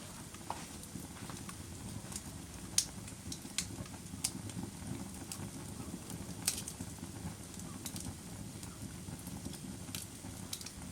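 Fire crackling: a steady low rushing noise with scattered sharp pops and snaps, about half a dozen loud ones and many fainter.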